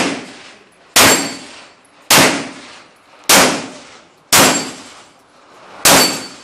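Pistol shots fired singly about a second apart, six in all, each sharp report followed by a short metallic ring.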